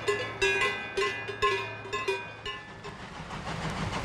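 A metal bell clangs about ten times at an irregular pace, each strike ringing on briefly, and dies away after about two and a half seconds. A steady rumble with a fast rhythmic pulse then rises.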